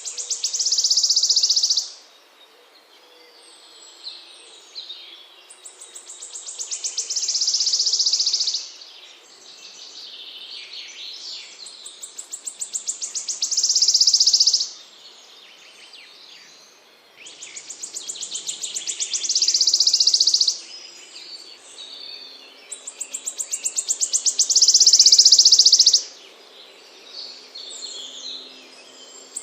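A small songbird singing a rapid, high trill that builds in loudness over two to three seconds and then stops abruptly, repeated about five times, with softer chips and notes in between.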